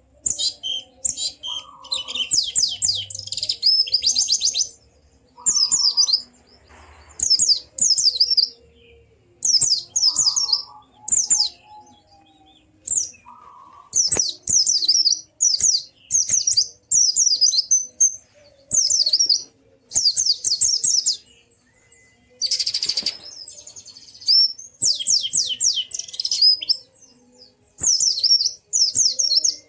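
Pleci (white-eye) singing energetically in rapid, high chattering trills: phrases about a second long, repeated over and over with short pauses between.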